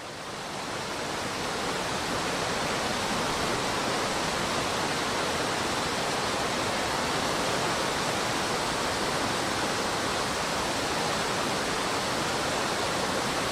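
Mountain stream rapids rushing steadily, fading in over the first couple of seconds.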